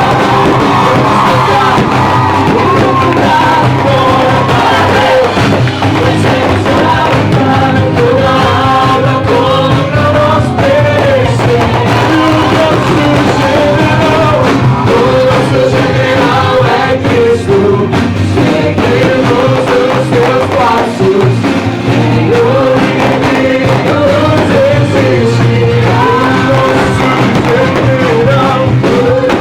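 Music: a group singing a Portuguese Christian worship song over instrumental accompaniment, loud and continuous.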